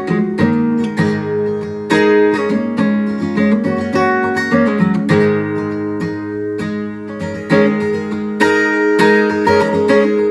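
An acoustic plucked string instrument playing a solo instrumental passage of a folk song, with quick repeated picked and strummed notes and no singing.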